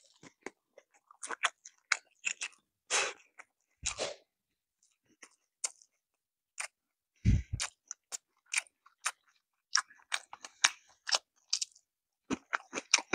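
Close-miked chewing of food: crunchy, moist chewing clicks in irregular runs, with a brief low thump about seven seconds in.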